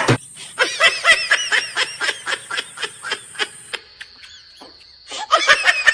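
High-pitched laughter in a quick run of short repeated bursts. It breaks off for a moment after about three and a half seconds and starts again near the end.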